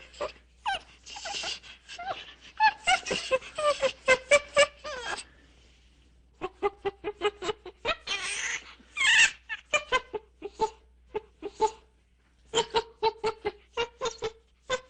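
An animal calling in quick runs of short, pitched yelps, several a second, with a couple of brief pauses.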